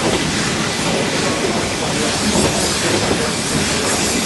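Moving passenger train heard from inside the carriage through an open window: the steady running noise of the wheels on the track.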